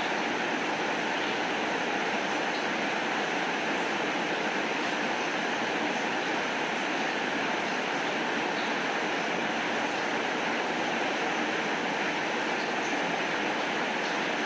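Steady rain falling, an even hiss with a few faint light ticks scattered through it.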